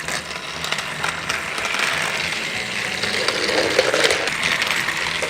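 Battery-powered TrackMaster toy train's motor and plastic gears whirring as it runs along the track, with small clicks.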